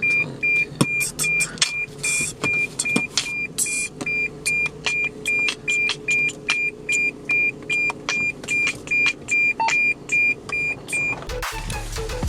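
A car's warning chime beeping steadily, about two and a half times a second, with scattered clicks and knocks between the beeps. The beeping stops about eleven seconds in and music starts just after.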